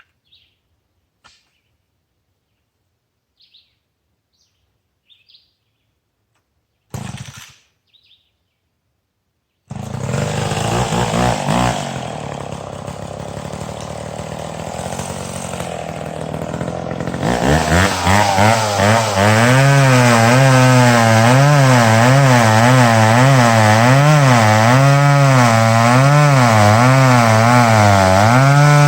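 A few faint bird chirps, then one short loud noise about seven seconds in. About ten seconds in a two-stroke chainsaw starts and runs, and from about seventeen seconds it runs at full throttle with its pitch wavering, cutting into dead ash wood.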